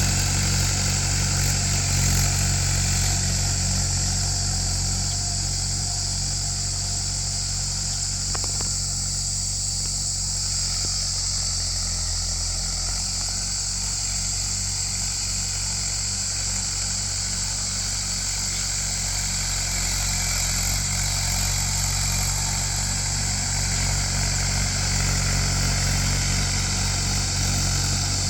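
Mahindra tractor's diesel engine running steadily while ploughing a field, dipping slightly in level midway and picking up again near the end, with a steady high hiss over it.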